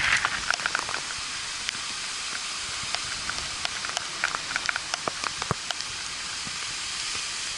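Hurricane wind and rain: a steady hiss with scattered sharp ticks.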